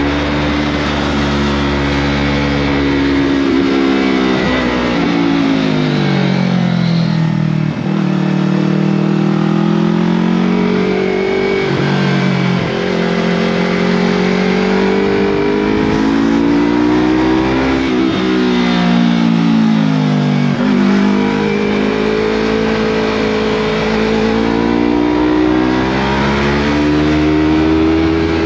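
Yamaha MT-03 motorcycle's engine through a Scorpion full-system aftermarket exhaust, running steadily under way. Its note sinks twice as the throttle is eased off, then climbs again as the bike pulls.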